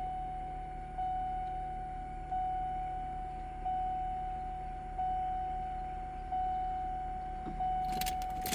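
The car's electronic warning chime repeats steadily, one ding about every 1.3 seconds. Near the end come sharp clicks and rattles, like a key working in the ignition.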